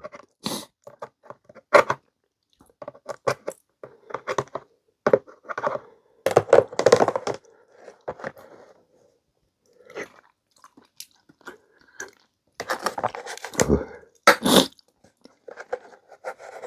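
Close-miked eating sounds: chewing mouthfuls of clam and seaweed noodle soup, in irregular bursts with short sharp clicks between them.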